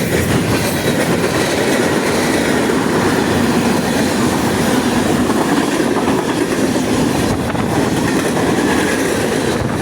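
CN freight train passing at speed: a loud, steady rumble and rattle of wheels on the rails.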